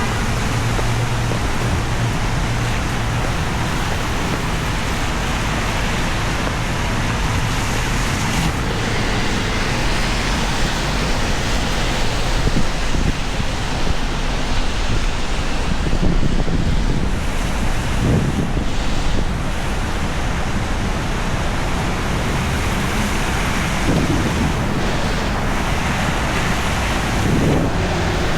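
Heavy rain pouring steadily on a city street, a dense even hiss throughout, with vehicles passing on the wet road, their engines rising briefly a few times in the second half.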